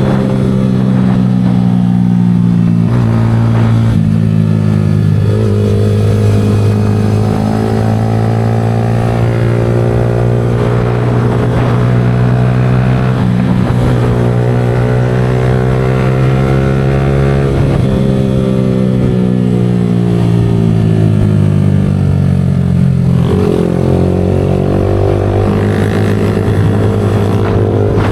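Yamaha R15 V4's 155 cc single-cylinder engine through an aftermarket Leo Vince exhaust, running steadily. Its note climbs slowly and drops back several times as the throttle and revs change.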